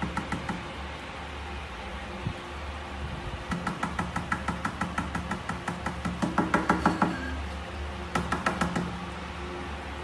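Rapid tapping or knocking in several runs, about eight taps a second: a brief run at the start, a long run from about three and a half to seven seconds in, and a shorter one near nine seconds.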